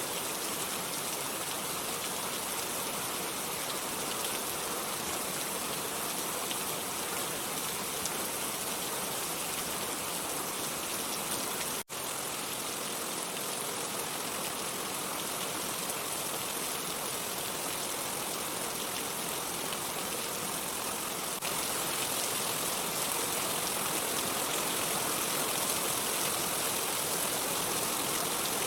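Steady rain falling, a dense even wash of noise. It cuts out for a split second about twelve seconds in and gets slightly louder about seven seconds before the end.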